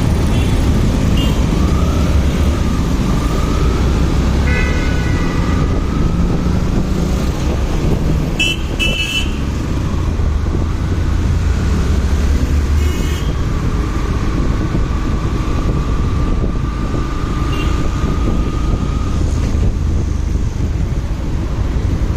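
Motorcycle riding in road traffic, a steady rumble of engine and wind noise, with short vehicle horn beeps a few times, about 5, 9 and 13 seconds in.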